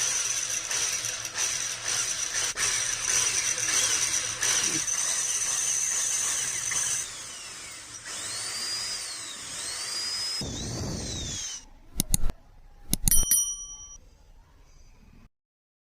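A power tool running steadily with a high whine for about seven seconds, then weaker with pitches sliding up and down. Near the end come two sharp metallic strikes, the second ringing on in several clear tones.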